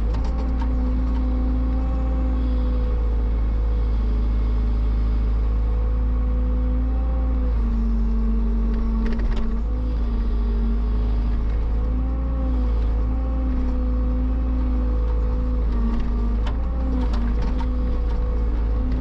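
Engine of a heavy machine, an excavator or tractor, running steadily. Its pitch dips and recovers several times as if under changing load, with a few brief knocks.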